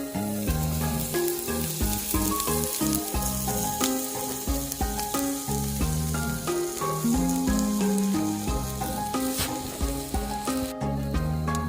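Food sizzling as it fries, a steady hiss that cuts off suddenly near the end, under background music with a bass line.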